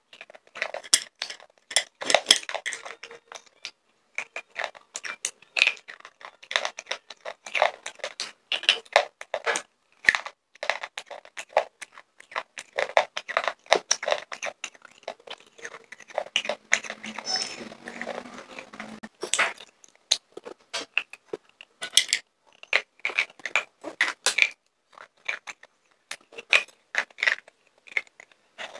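Slate pencils being bitten and chewed close to a microphone: a dense run of sharp, dry crunches, easing briefly a little past halfway.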